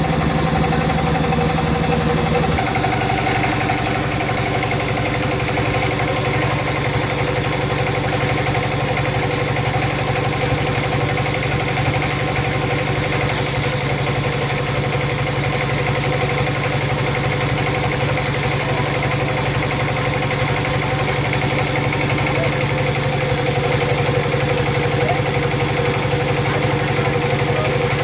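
Sawmill saw machinery running with a steady mechanical drone; its low hum shifts slightly about two and a half seconds in.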